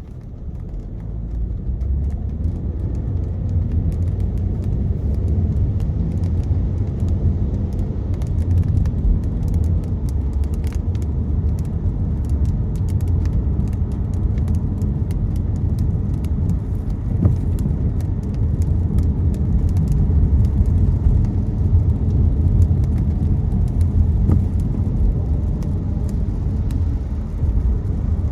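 Car cabin driving noise on a wet road: a steady low rumble of tyres and engine that builds over the first two seconds as the car gathers speed, with scattered light ticks of raindrops hitting the car.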